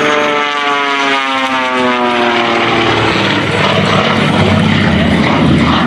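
Jet Waco aerobatic biplane flying past. Its engine note falls steadily in pitch over the first few seconds, then gives way to a deep, steady rumble.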